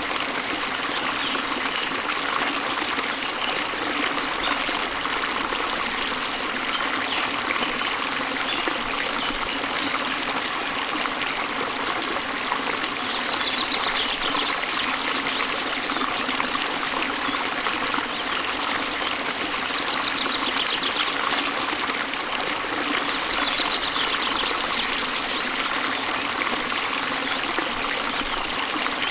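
Waterfall water running with a steady, even rush. A bird's rapid high trill comes through several times, about halfway in and again near the end.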